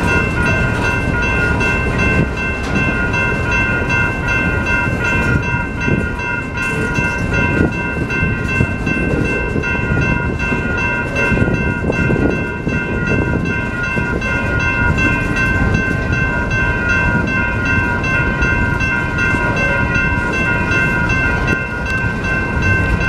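Freight cars, centerbeam flatcars among them, rolling past with a steady rumble and irregular wheel clatter. A grade-crossing warning bell rings continuously over it.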